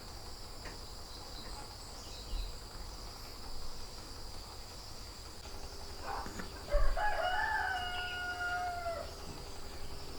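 A rooster crowing once, a single long call starting about six and a half seconds in, over a steady high-pitched hum.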